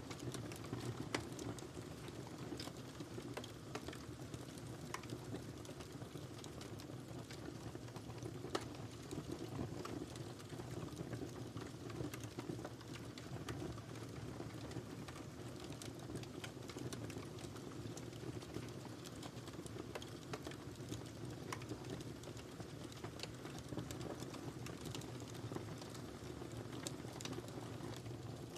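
Wood fire burning in a fireplace: a steady low rush of flames with scattered small crackles and pops, two sharper pops standing out about a second in and again past eight seconds.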